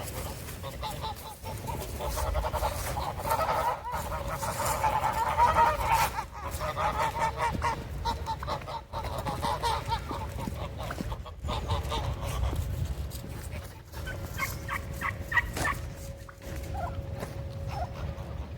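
A group of domestic geese honking, many overlapping calls, busiest in the first half and thinning out later.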